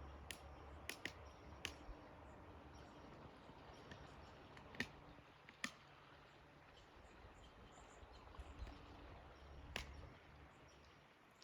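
Near silence with a handful of faint, sharp clicks scattered through it. The clearest two come about five seconds in, less than a second apart, and another comes near the end.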